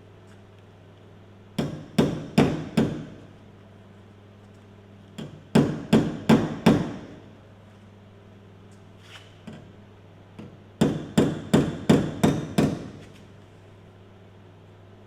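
Panel hammer striking the Falcon's sheet-metal body panel in three runs of quick blows, two to three a second: about four, then five, then seven. A steady low hum runs underneath.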